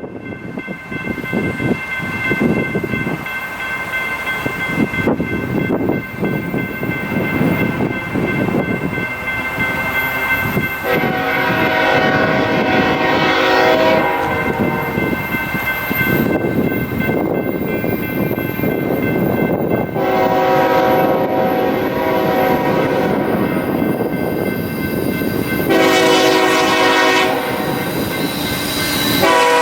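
Freight train led by three GE Evolution-series diesel locomotives approaching and passing, engines and wheels getting louder, with a steady high squeal throughout. The lead unit sounds its multi-chime horn in the grade-crossing pattern: two long blasts, a short one, and a last long blast starting near the end.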